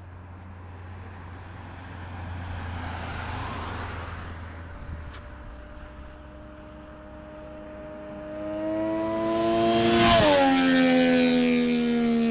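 Triumph Daytona 675's three-cylinder engine through a Jardine slip-on exhaust, growing louder as the bike approaches. It passes close about ten seconds in, where its note drops sharply in pitch, then sinks slowly as it goes away.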